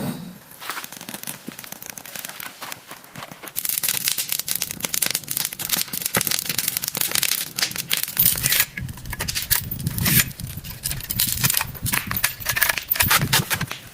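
Dense crackling made of many small, sharp clicks, sparse for the first few seconds and then much thicker.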